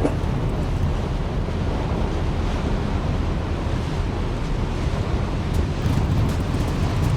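Wind buffeting the microphone over the rush of water along the hull of a moving boat, a steady noise that is heaviest in the low end.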